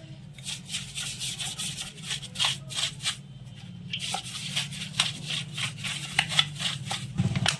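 Motorcycle engine parts being scrubbed clean by hand: a run of quick, scratchy rubbing strokes, a few a second, over a steady low hum.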